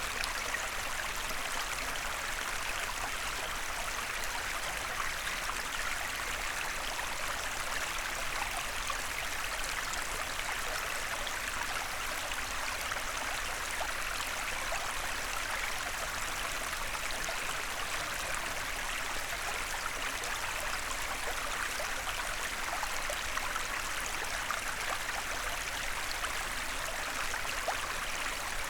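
Small forest stream flowing and babbling over stones, a steady rush of water with fine trickling detail.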